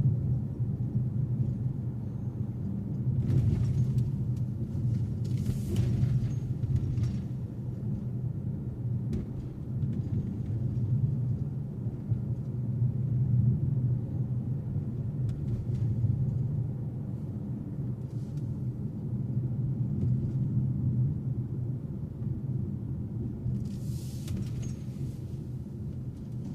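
Steady low rumble of a car's road and engine noise while driving, with a few brief rushes of noise about three, six and twenty-four seconds in.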